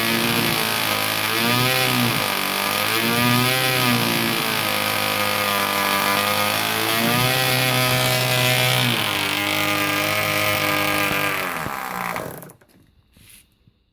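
ASP .061 (1 cc) two-stroke glow-plug nitro model engine running, revving up and down several times, then holding a higher speed. It then drops to a slower run and cuts out about twelve seconds in.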